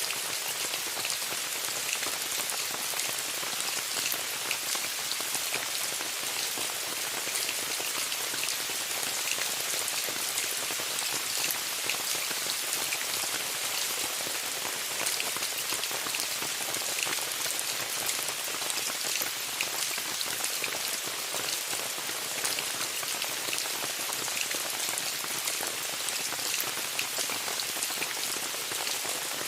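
Steady rain falling on a tent: a dense, even hiss made of many small drop hits, with no change in strength.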